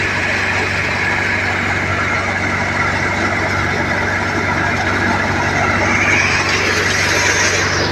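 John Deere 5050D diesel tractor running steadily at about 1400 rpm to drive an NVT multicrop thresher threshing chickpeas, the engine's hum under the constant rushing whir of the thresher. The whir rises slightly in pitch about six seconds in.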